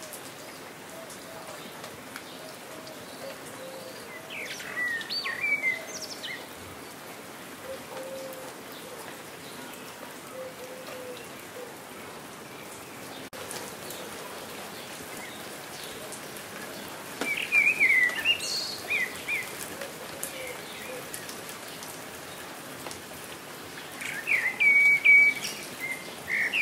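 Steady rain falling, with a songbird giving short bursts of chirping calls three times: about five seconds in, around eighteen seconds, and near the end.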